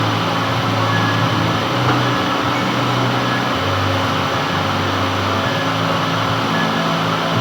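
Metal lathe running steadily, with a low motor hum that swells and eases every second or two.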